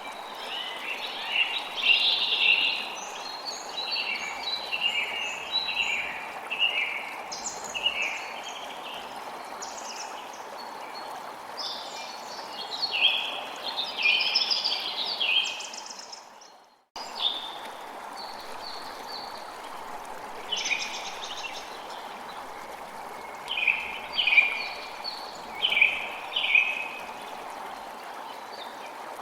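Birds chirping and calling in many short phrases over the steady rush of a stream of running water. A little past halfway the whole sound fades out to silence for a moment and cuts back in abruptly.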